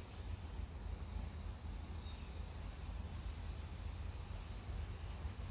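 Small birds chirping in three short runs of high notes that fall quickly, over a low, steady rumble of outdoor background noise.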